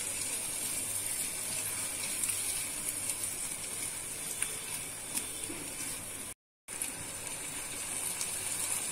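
Onion, carrot, tomato and capsicum mixed with pizza sauce sizzling in a nonstick kadhai, a steady hiss with a few light scrapes and taps as a silicone spatula stirs it. The sound drops out for a split second a little past the middle.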